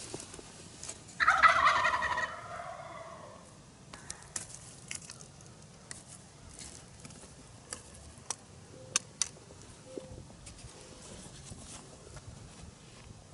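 A wild tom turkey gobbles once: a loud, rattling call about a second in that trails off over the next second or two. Scattered faint sharp clicks follow.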